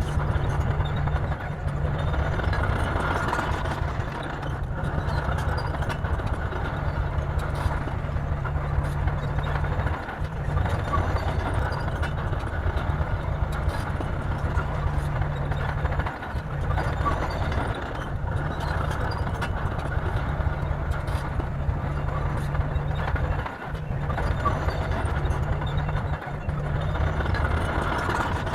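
Bulldozer's diesel engine running steadily under work, with a low, even drone and a few brief dips in level through the stretch.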